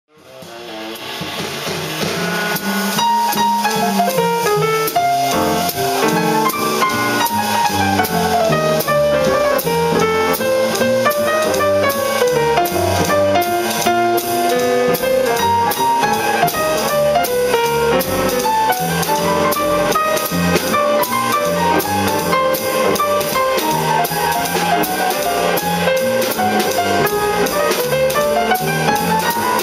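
Live jazz quartet playing: saxophone, piano, bass and drum kit, with a fast melodic line weaving up and down over the rhythm section and steady cymbal work. The music fades in over the first second or two.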